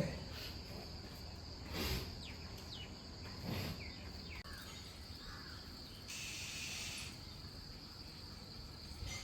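Steady high-pitched drone of an insect chorus, with short downward-sliding bird calls over it in the first few seconds. A brief hiss comes about six seconds in.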